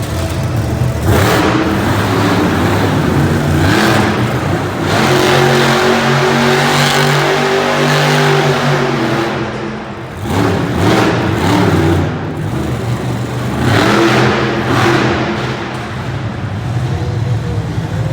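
Bigfoot monster truck's engine running hard through a freestyle run, revving up in repeated surges with a steady high-rpm note held for several seconds in the middle. It dips briefly about ten seconds in, then revs up again twice.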